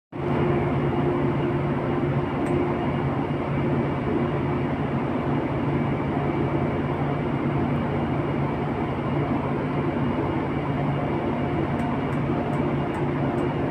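Steady mechanical rumble with a constant low hum, like running machinery or an engine. Faint regular ticking, about two or three a second, comes in near the end.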